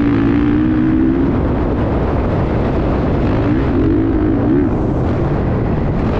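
Motocross dirt bike engine running with wavering pitch, over a dense rushing noise.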